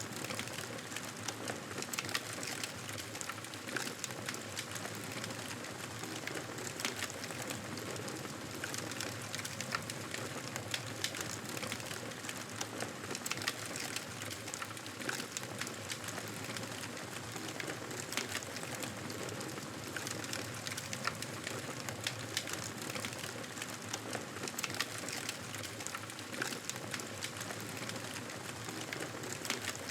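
Wood fire crackling, with a steady hiss and frequent small, irregular pops and snaps.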